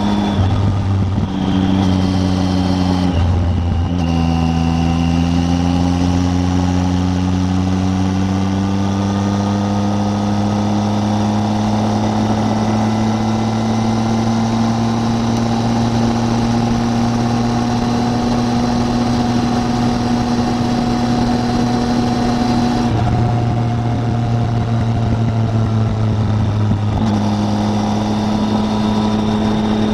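Triumph Tiger 800's three-cylinder engine running under way. Its note drops twice in the first few seconds, like gear changes, then climbs slowly for most of the stretch as the bike gains speed, and shifts again a couple of times near the end.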